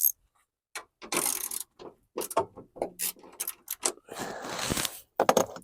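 Hand ratchet clicking in short, irregular runs with pauses as the next screw is tightened, with light scraping and rattling of parts.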